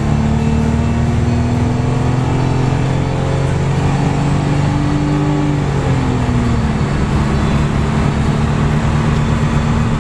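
Nissan 300ZX (Z32) V6 engine accelerating under throttle, its pitch climbing steadily, then dropping as the car shifts up about six seconds in and climbing again.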